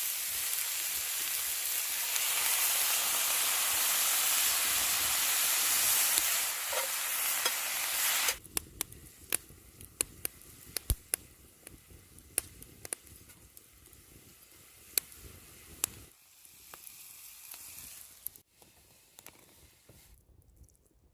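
Steak frying in a hot pan, with loud, steady sizzling that cuts off abruptly about eight seconds in. After it comes a quieter stretch of scattered sharp clicks and pops.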